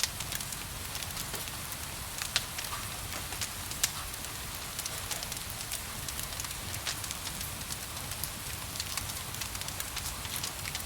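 Wood fire crackling with frequent sharp pops, two louder ones a couple of seconds in, over a steady hiss of gentle rain.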